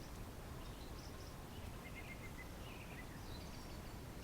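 Quiet outdoor ambience: a steady low background noise with faint, scattered bird chirps, including a quick run of four short chirps about halfway through.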